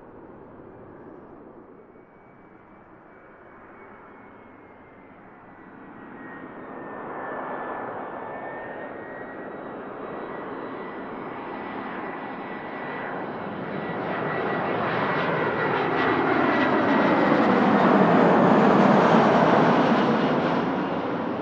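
Jet airliner passing close by: its engine noise builds steadily for about twelve seconds, peaks near the end and then starts to fade. A thin high engine whine glides slightly lower as the aircraft goes past.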